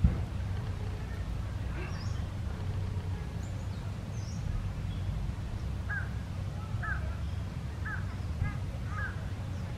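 A bird calls five times, about once a second, in the second half, after a few faint high chirps earlier, over a steady low rumble of background noise. A short click sounds at the very start.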